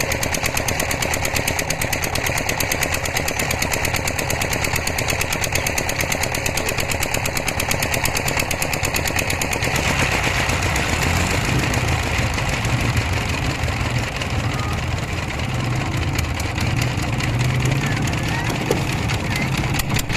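Several motorcycle engines idling together with rapid, even chugging. About ten seconds in, the chugging softens and a deeper engine rumble comes up.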